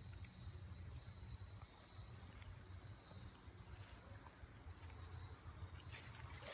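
Faint, steady high-pitched insect drone over a low rumble.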